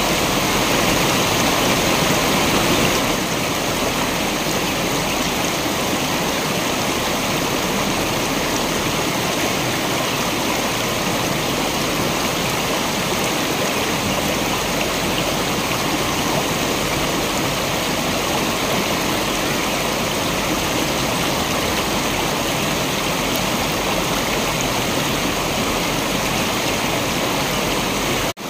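Waterfall water rushing in a steady, dense roar of falling and splashing water. It is slightly louder for the first three seconds and cuts out for an instant near the end.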